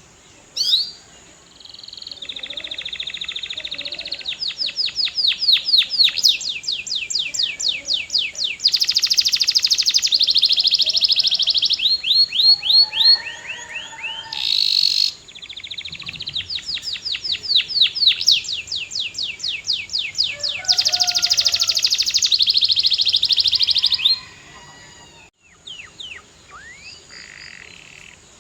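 Domestic canary singing two long song phrases, each a run of rapid trills and rolls of repeated high notes that change speed from one stretch to the next. A short noisy burst comes between the phrases, about halfway through, and a few short single notes follow near the end.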